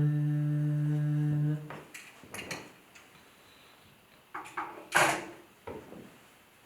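Voices holding the last note of a sung "Amen" in Byzantine chant, stopping after about a second and a half. Then a few scattered knocks and clatters follow, the loudest about five seconds in.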